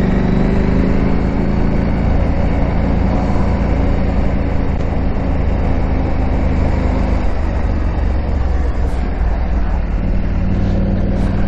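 KTM 890 Adventure R's parallel-twin engine running under way while it is ridden off-road. The engine's pitch is held steadily, blurs under rougher noise from about seven seconds in, and comes back clear near the end.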